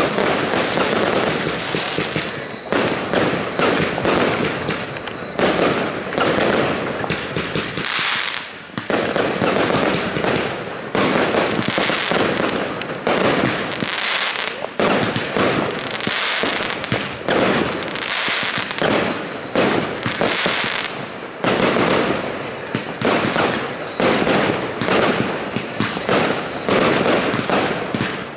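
Fireworks going off in rapid succession: near-continuous bangs and crackling of aerial bursts, with a few brief lulls.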